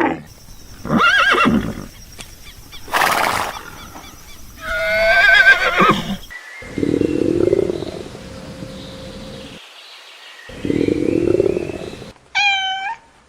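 Animal calls one after another, among them a horse whinnying with a loud, wavering, falling call about five seconds in. Lower, longer calls follow, and a short high call comes near the end.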